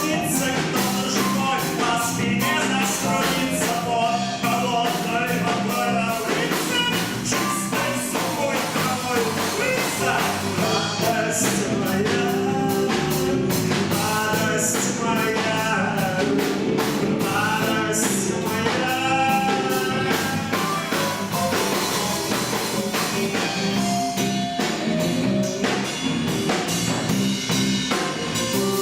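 Rock band playing live: drum kit, electric guitar and a sung lead vocal, in a steady rhythm.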